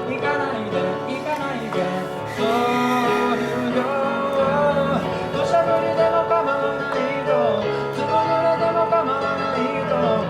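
A man singing a slow ballad over acoustic guitar accompaniment, the melody held in long, gliding notes.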